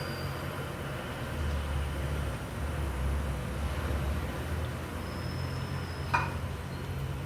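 Dal vadas frying in hot oil with a faint crackle, under a steady low rumble. A single sharp clink about six seconds in.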